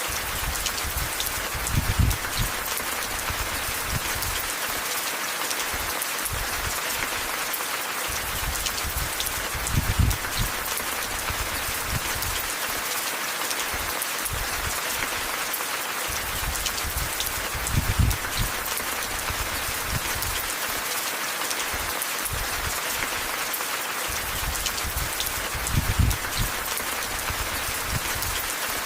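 Steady rain falling, an even hiss with fine patter of drops. A soft low thud comes about every eight seconds.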